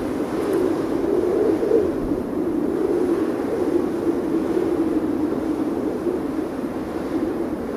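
Wind howling, a steady rushing band of noise whose pitch wavers a little up and down.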